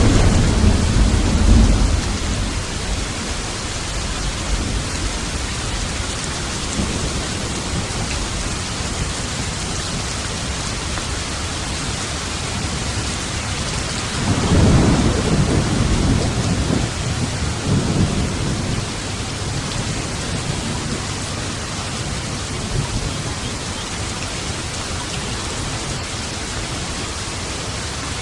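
Steady heavy rain with thunder rolling twice: a rumble right at the start lasting about two seconds, and a longer roll about halfway through.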